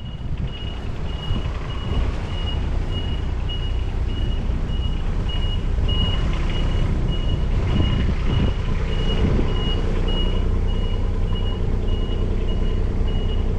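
Reversing alarm of a diesel construction vehicle beeping steadily, about two high beeps a second, over the engine running at a steady low rumble as the vehicle backs into position.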